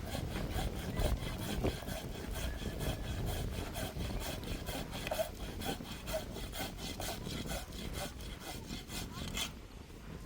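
Saw cutting through wood in steady back-and-forth strokes, about three strokes a second, stopping shortly before the end.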